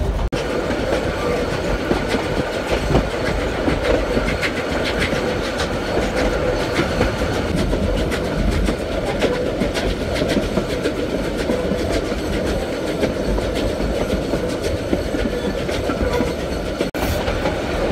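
Narrow-gauge train running on the rails, with a steady rumble and the wheels clicking over the rail joints.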